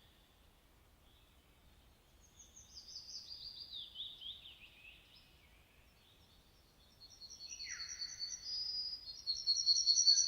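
Songbirds singing. About two seconds in comes a run of high notes falling steadily in pitch. From about seven seconds there is a quick series of repeated high chirps with a lower falling note among them, growing louder near the end.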